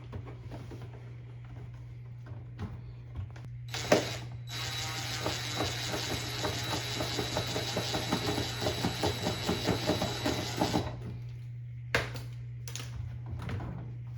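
A small machine runs for about seven seconds with rapid clicking and a thin high whine, starting right after a sharp knock and cutting off abruptly, followed by a single click a second later.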